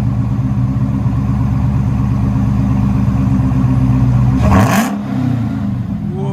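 Dodge Charger Hellcat's supercharged 6.2L Hemi V8 idling through a dual exhaust with the rear resonators deleted, then one quick sharp rev about four and a half seconds in, the pitch climbing and dropping back to idle.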